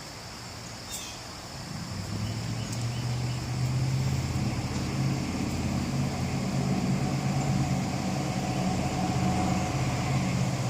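A motor vehicle's engine running, coming in about two seconds in and growing louder, then holding a steady low hum.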